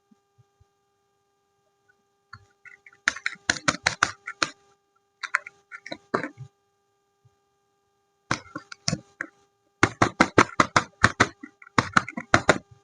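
Crisp crackling of soap packaging being handled and unwrapped, in several short bursts of sharp crinkles with pauses between them, over a faint steady hum.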